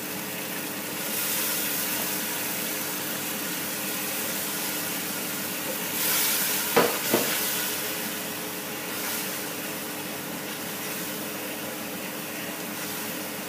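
Tomato and spice masala sizzling in a pot just after a splash of water goes in, stirred with a wooden spoon, with two quick knocks of the spoon against the pot about seven seconds in.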